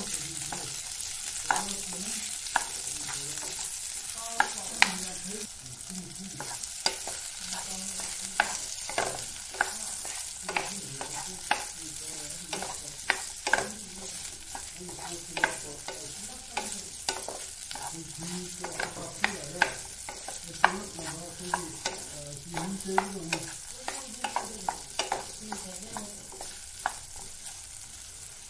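Cubed potatoes, green chillies and onion sizzling in oil in a frying pan with a steady hiss, while a wooden spatula stirs them, knocking and scraping against the pan about once a second.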